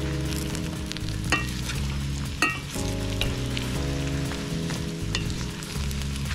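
Potato fries sizzling in hot oil in a cast-iron kazan as a metal skimmer stirs them. The skimmer gives a few sharp clinks against the pot, two of them louder, about a second and two and a half seconds in.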